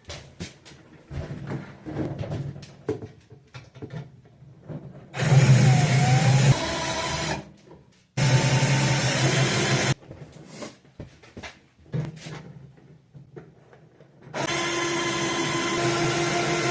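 Power drill running in three bursts of about two to three seconds each, at the microwave's security screws, with clicks and knocks of tool handling between the runs.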